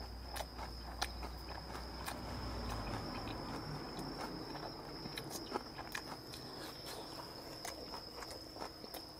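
A person chewing a mouthful of grilled pork belly and kimchi with the lips closed: soft, irregular wet clicks and smacks of chewing. A steady high-pitched trill runs under it.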